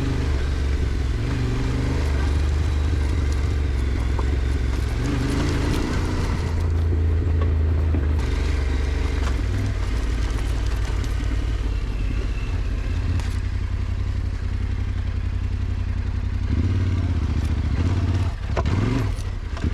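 Yamaha Ténéré 700's parallel-twin engine running as the motorcycle is ridden slowly along a track, revs rising and falling, with a couple of quick rev rises near the end.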